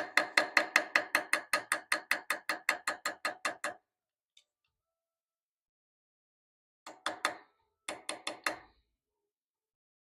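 Rapid light hammer taps on metal, about six a second, each with a short metallic ring at the same pitch: a run of some twenty taps, then after a pause two short quick bursts of about five taps each.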